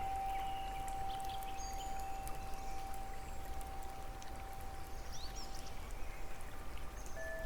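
Steady rush of flowing water with a few short, high bird chirps. A single chime note rings on and fades out about six seconds in, and new chime notes strike near the end.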